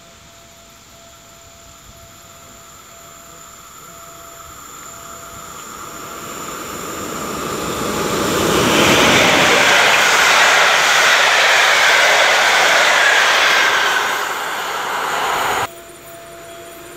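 Express train approaching and passing at speed on electrified track. A growing rumble swells into a loud rush of wheels on rail for about five seconds, eases off, then cuts off abruptly near the end.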